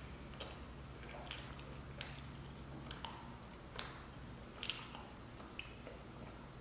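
Slow chewing of a macaron with the mouth closed: faint wet mouth clicks about once a second, over a low steady hum.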